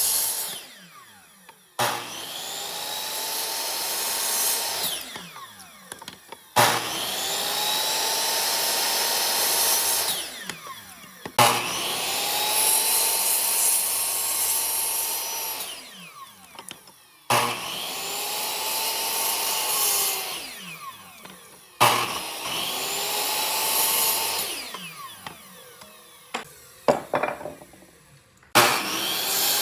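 Woodworking power tool switched on and off over and over. Each time its motor starts suddenly, runs for about three to four seconds, then winds down in pitch after it is switched off, about six times in all.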